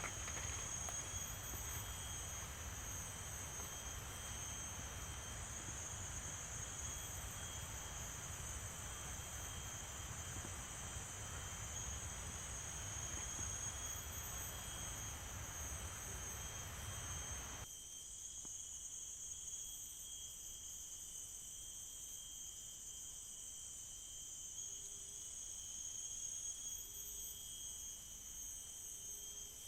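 Forest insects calling in a steady high-pitched chorus, several even tones held without a break. A low rushing noise runs under it and cuts off abruptly more than halfway through, leaving only the insects.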